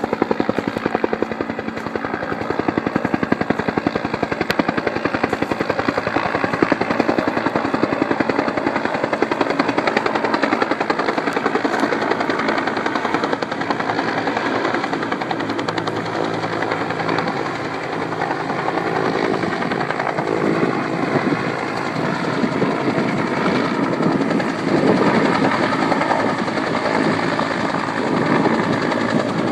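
Firefighting helicopter's rotor beating loudly and steadily at close range.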